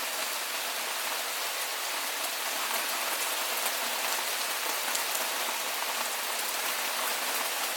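Steady rain falling: a dense, even hiss with scattered sharp taps of individual drops.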